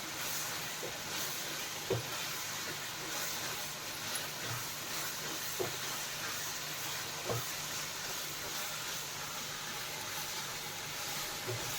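Chicken frying in oil in a pan with ginger-garlic-chilli paste, a steady sizzle. A few brief knocks, about two, five and a half and seven seconds in.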